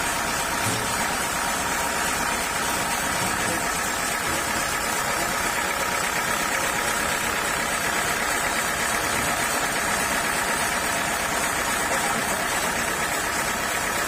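Sawmill machinery running steadily at an even level, an engine-driven hum with no cuts or changes.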